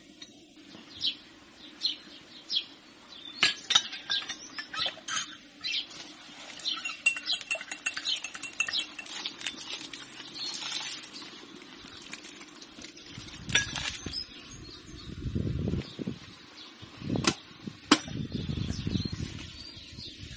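Scattered clinks and taps of dishes and cooking utensils being handled, sharp and irregular, with a few dull bumps in the second half.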